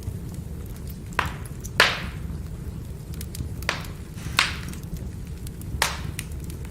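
Firewood burning: a steady low rumble of flame with small crackles and about five sharp, loud pops at irregular intervals as the wood splits in the heat.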